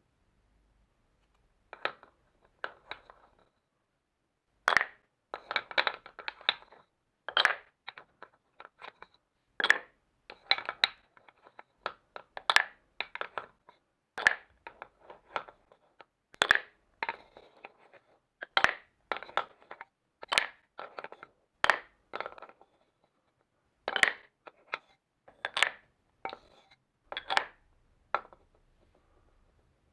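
Marbles clacking and rattling down a marble run: a long run of sharp, irregular clicks, some in quick clusters, starting about two seconds in and stopping near the end.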